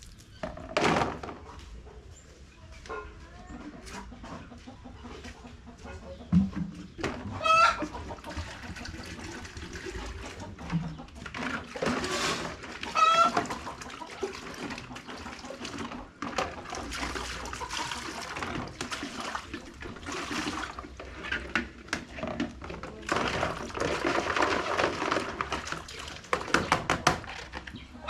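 Chickens clucking, with a couple of short rising hen calls, amid scattered knocks and a stretch of rustling noise near the end.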